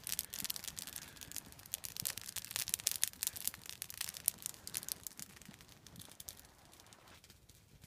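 Small campfire crackling, with irregular snaps and pops over a faint hiss that thin out and fade near the end.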